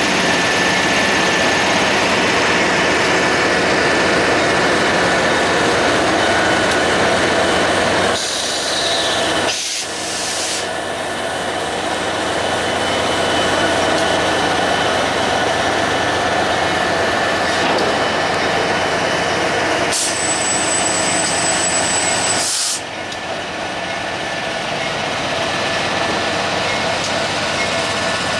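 Maintenance-of-way work train hauled by diesel locomotives, moving along the track: a steady, loud mix of engine and rolling noise. The sound drops abruptly about a third of the way in and again about three-quarters in.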